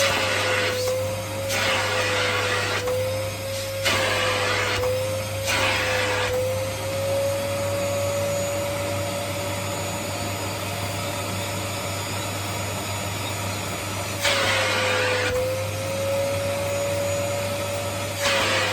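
Vacuum cleaner running with a steady whine, its nozzle sucking at bare legs. Louder rushes of hissing air come and go several times in the first six seconds and again near the end.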